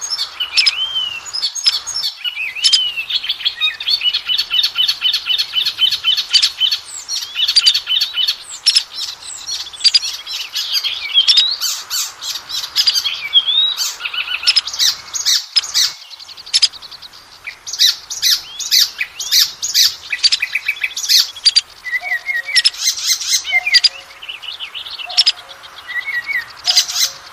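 Oriental magpie-robin (kacer) singing continuously: a fast, varied string of slurred whistles, rapid trills and sharp repeated notes, with a few lower short notes near the end. It is a lure song of the kind bird keepers play to rouse a caged magpie-robin into singing.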